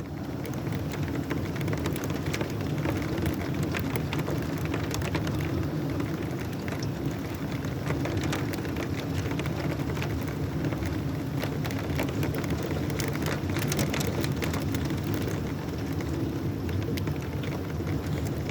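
Heavy rain falling steadily in a thunderstorm, with many small sharp ticks of drops striking hard surfaces close by.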